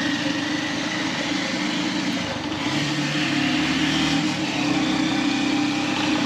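Motorcycle engine running steadily while riding, over road and wind noise. A second, deeper engine note joins for a couple of seconds about halfway through.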